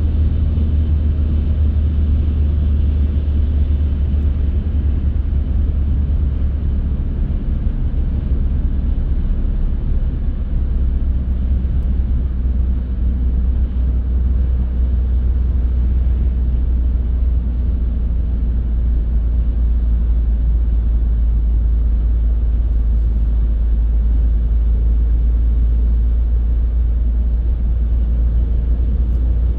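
Car on the move: a steady low rumble of engine and tyres on the road, with a slight shift in the deep hum about ten seconds in.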